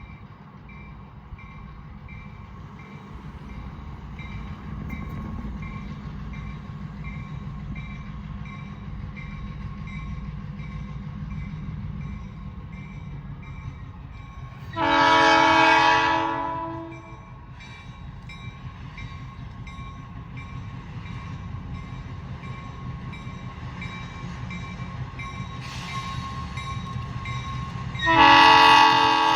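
Approaching diesel locomotive rumbling, growing louder, and sounding its air horn in two long blasts, about halfway through and again near the end. The horn is a chime with several notes at once, not the railroad's usual horn but one from the engineer's own horn collection.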